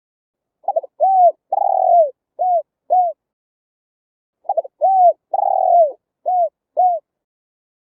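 Spotted dove cooing: two phrases about four seconds apart, each a quick stutter followed by four arched coos, the second coo the longest.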